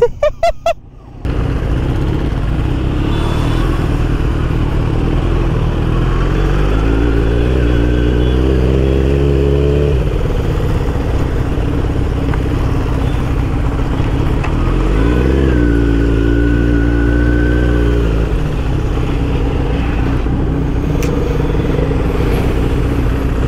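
Motorcycle engine pulling at speed over heavy wind rush, with a few loud choppy bursts in the first second. The engine note climbs in pitch and drops off sharply twice, about ten and eighteen seconds in.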